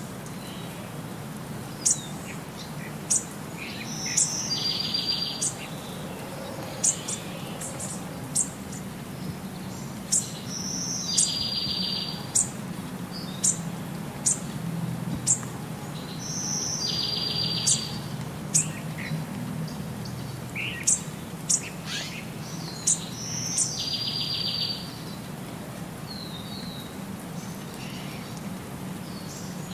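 Birdsong: sharp high chirps and a short buzzy trill, repeating in the same pattern about every six seconds over a steady low hum.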